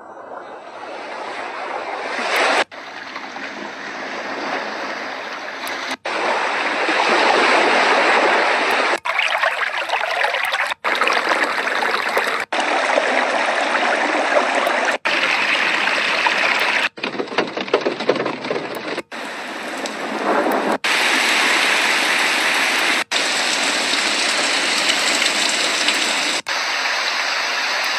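Magicteam white noise machine playing its built-in soothing sounds, steady rushing water-like noise, switched to a new sound about every two to three seconds with a brief cut of silence between each.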